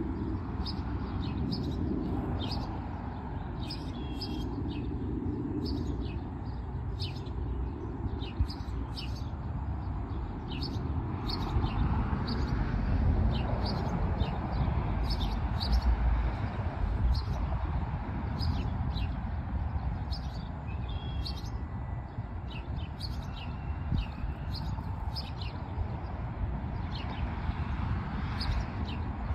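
Small birds chirping again and again, short high calls scattered throughout, over a steady low outdoor rumble.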